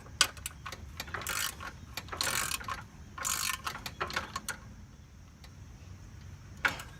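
Ratcheting wrench clicking in short runs as it turns screws out of a lawn tractor's deck panels, with a sharp knock near the end.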